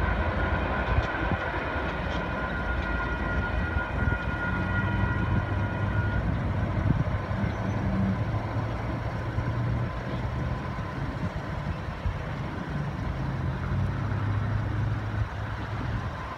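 Freight train rumbling as it moves off, with steady high ringing tones that stop about six seconds in. Then road vehicle engines, a pickup truck among them, run as traffic crosses the tracks.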